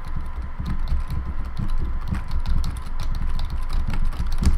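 Keys of a Logitech K360 membrane keyboard pressed one after another in quick succession, a dense run of clicks and low thuds, as each key is tried in turn to test it after some keys had stuck.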